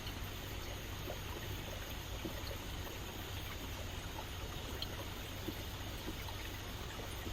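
Rainforest stream running steadily over rocks, a continuous rushing with many small trickles and drips scattered through it.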